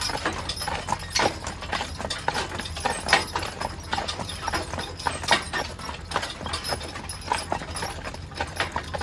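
Team of draft horses walking on pavement, their hooves clip-clopping in an irregular run of sharp clacks over a low steady rumble.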